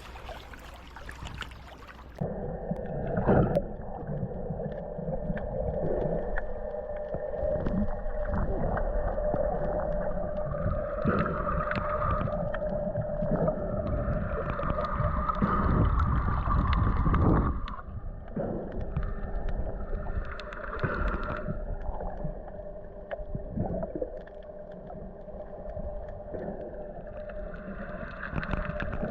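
Muffled underwater sound from a camera held below the surface while snorkeling: water gurgling and sloshing with a steady hum and occasional knocks. About two seconds in, the high end cuts off as the camera goes under.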